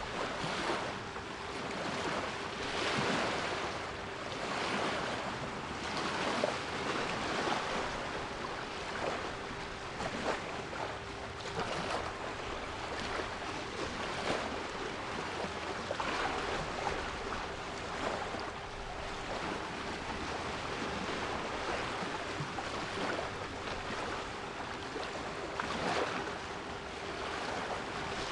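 Sea waves washing in and breaking, swelling and easing every few seconds, with a steady 396 Hz pure tone held underneath.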